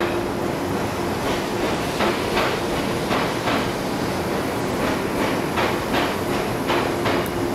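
Train wheels clacking over rail joints, the clacks coming mostly in close pairs as each bogie crosses, over a loud steady rumble and hum of a train moving along the track.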